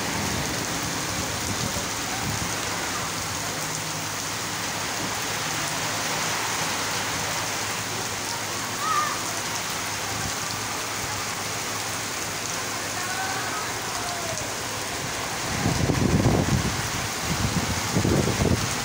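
Heavy rain falling steadily on a street, an even hiss of drops. Near the end, low rumbles swell and fade a few times, louder than the rain.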